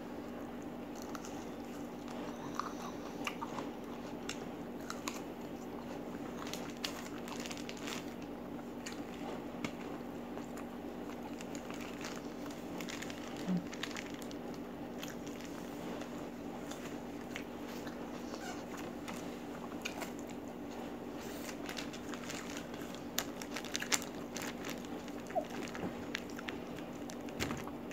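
Close-miked eating: crunchy bites into a raw red chili and chewing, with many short sharp crunches scattered throughout, over a steady low hum.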